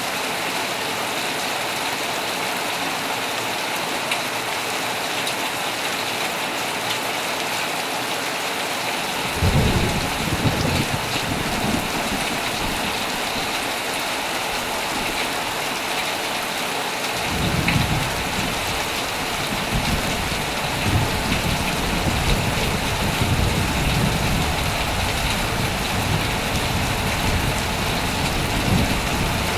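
Heavy rain falling steadily on a tent with an even hiss. About nine seconds in, thunder starts rumbling low and lasts several seconds; a second, longer roll of thunder begins a little past halfway and keeps swelling and fading.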